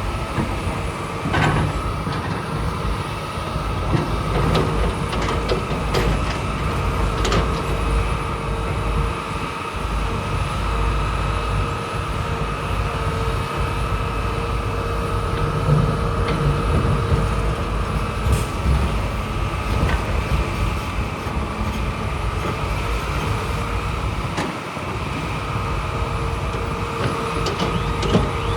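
Heavy earthmoving machinery running steadily: a diesel engine with a constant whine over its low rumble, and a few sharp metallic clanks.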